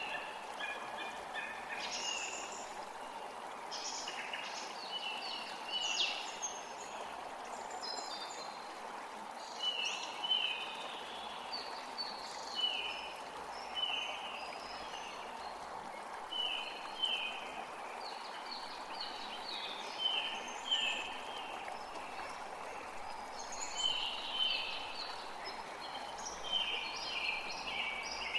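Forest creek running steadily, with songbirds singing over it in short, repeated chirping phrases every second or two.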